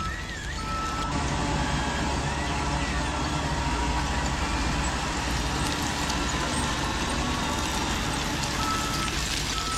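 Radio-controlled construction trucks running with a steady engine sound, with reversing beeps in the first second and again near the end.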